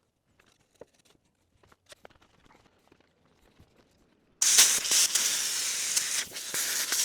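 Faint scattered taps and clicks of handling, then about four seconds in a loud rushing hiss of pressurized air or gas starts suddenly and keeps going, dipping briefly once.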